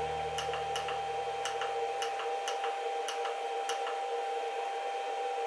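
Buttons on a VFD keypad clicking, about seven uneven presses as a parameter value is stepped through. Under them runs a steady high whine, and a low hum that stops about two and a half seconds in.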